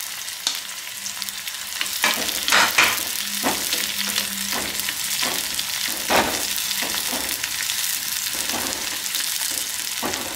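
Sliced shallots and green chillies sizzling in hot coconut oil, with a steady hiss. They are stirred throughout, the spoon's strokes scraping and knocking irregularly against the pot.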